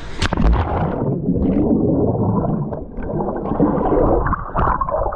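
A splash as a person plunges into a swimming hole, then muffled gurgling and bubbling from underwater, dull and cut off in the highs.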